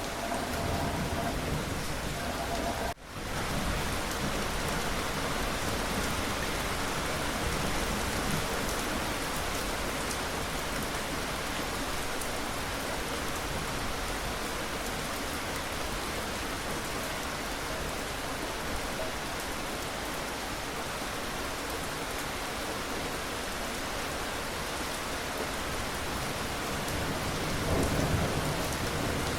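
Steady rain falling, a dense even hiss, with a brief dropout about three seconds in. A low rumble of thunder builds near the end.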